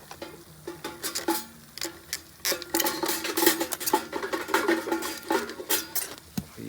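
Metal cooking utensils scraping and clinking against a pan as a stuck pizza is worked loose. It is an irregular run of quick clicks and scrapes, busier in the second half.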